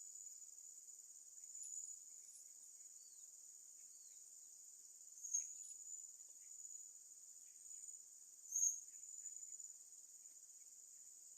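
Faint, steady, high-pitched drone of insects, with two brief high chirps about five and eight and a half seconds in.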